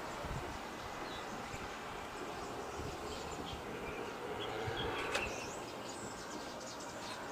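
Outdoor ambience: a steady background hiss with a few faint, scattered bird chirps, and one short sharp click about five seconds in.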